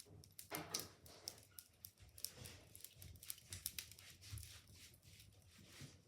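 Wood fire in a fireplace crackling faintly, with irregular sharp pops and snaps from freshly added logs burning.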